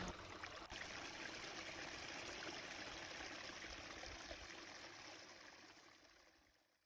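Small stream running and trickling steadily, fading out near the end.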